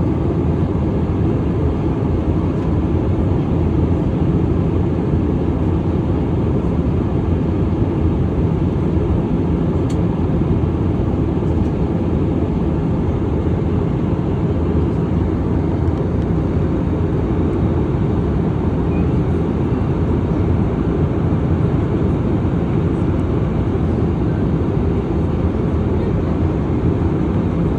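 Steady low rumble inside the cabin of an Airbus A320-family jet airliner in flight, the engines and airflow running evenly. A faint click sounds about ten seconds in.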